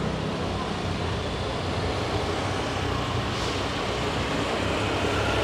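Steady vehicle noise heard from a moving songthaew, a red pickup-truck shared taxi: an even rumble of engine and road.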